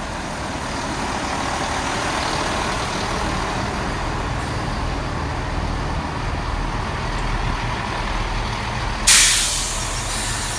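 Class 165 diesel multiple unit's engines running steadily, with a sudden loud burst of compressed-air hiss about nine seconds in that fades over about a second.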